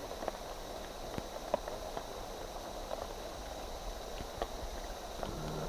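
Rain falling in rainforest: a steady hiss with scattered, irregular sharp drips and ticks of drops hitting leaves.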